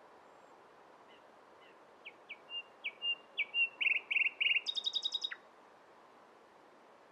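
Nightingale singing one phrase: a few soft notes, then louder repeated notes building into a fast run of rapid notes that stops abruptly, over a faint steady background hiss.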